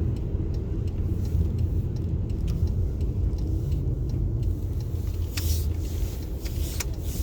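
Car cabin road rumble while driving slowly on a snowy road, with faint regular ticking, about three a second, and brief hissing streaks in the second half.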